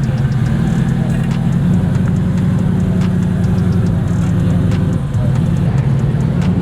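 A car engine running close by at a steady low speed, holding one deep, even pitch.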